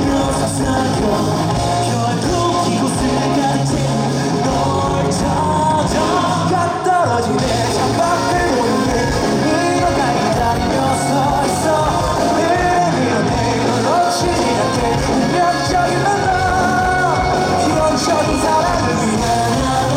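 A rock band playing live, with a singing voice over the band.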